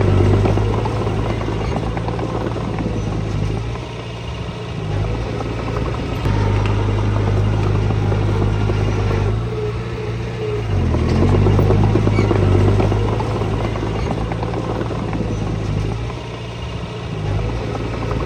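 Diesel engine of earthmoving machinery running under load. The revs drop and pick up again a few times, with the loudness swelling each time the engine pulls.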